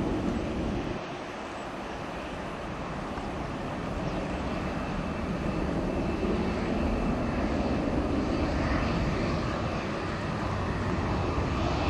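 Jet noise from a Boeing 737-800's CFM56-7B turbofan engines: a steady rumble that dips about a second in, then slowly grows louder.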